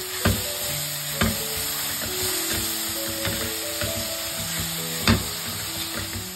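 Onions and tomato sizzling as they fry in coconut oil in an open pressure cooker, stirred with a silicone spatula that knocks against the pot a few times, loudest about five seconds in. Soft background music plays underneath.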